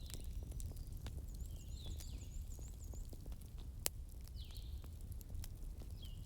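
Wood fire crackling in a fireplace: scattered small crackles over a low rumble, with one sharper pop about four seconds in. Faint, short high chirping calls are mixed in, including a quick run of chirps in the first half.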